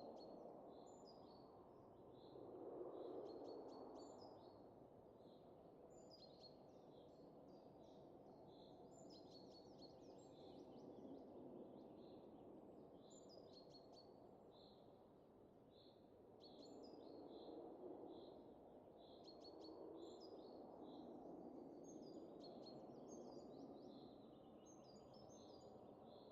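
Faint wind that rises and falls in slow gusts, with small birds chirping repeatedly, short high calls about once a second, some dropping in pitch.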